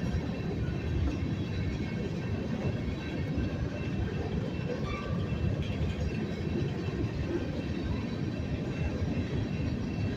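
Union Pacific local freight train rolling slowly past, a steady low rumble of wheels on rail.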